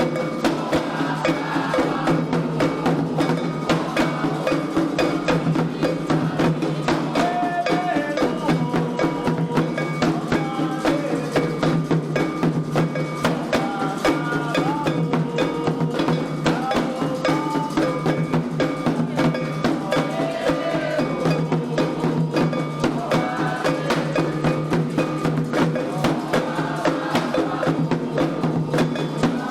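Candomblé xirê music: atabaque hand drums and a struck iron bell keep a fast, steady rhythm under voices singing a chant.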